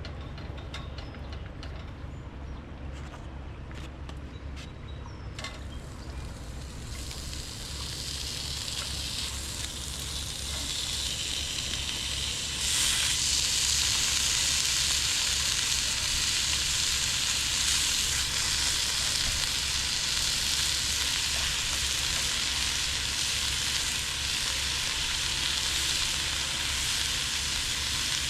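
Bacon sizzling in a frying pan on a camp stove: faint at first, building over several seconds, then jumping to a louder, steady sizzle about twelve seconds in.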